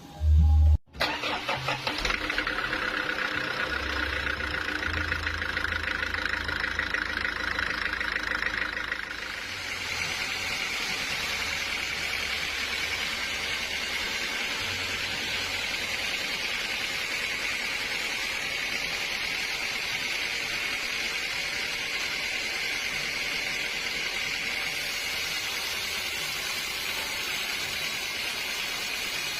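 Sawmill machinery running steadily, a motor with a high whir. About nine seconds in, the sound shifts to a steadier hiss.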